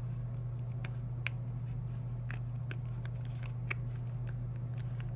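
Scattered small clicks and handling noises of plastic sunglasses lenses being fitted into their frame, over a steady low hum.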